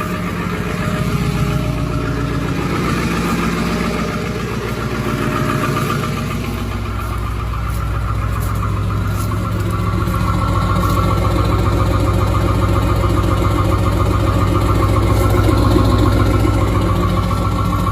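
Ford 7.3 Powerstroke turbo-diesel V8 idling just after a cold start, with a steady diesel clatter. It runs on evenly, getting a little louder from about ten seconds in.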